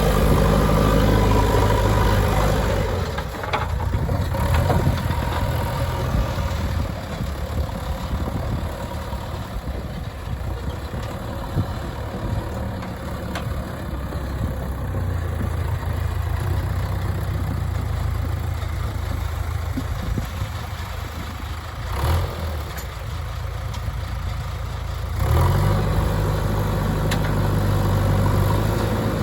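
JCB 3DX backhoe loader's diesel engine running while it works, revving harder for the first few seconds and again near the end, and running lower in between. A short knock about 22 seconds in.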